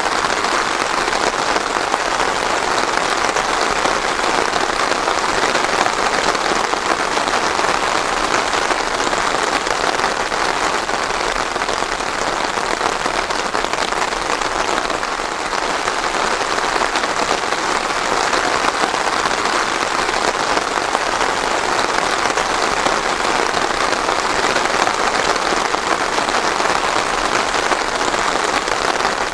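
Steady rain falling, an even, dense patter without thunder.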